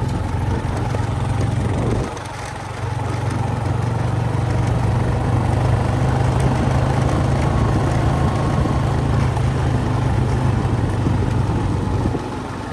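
ATV engine running, its level dipping briefly about two seconds in and falling off again near the end.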